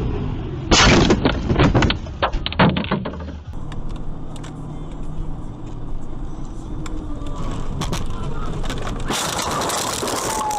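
Car collision: a loud impact about a second in, followed by a quick series of crunching hits over the next two seconds, then steady vehicle engine and road noise. A loud rushing noise starts near the end.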